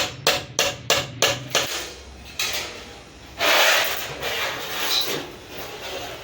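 Six quick hammer blows, about three a second, then a short loud burst of noise about two seconds later.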